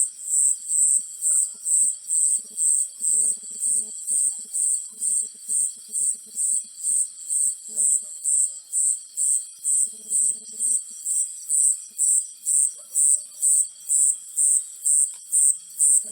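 An insect chirping steadily in high-pitched pulses, about two a second. Fainter, low, rattling calls come and go in short patches, mostly in the first half and again around ten seconds in.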